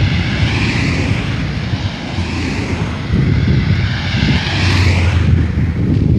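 Wind buffeting the microphone with a low rumble, under a rushing noise that swells and fades and drops away near the end.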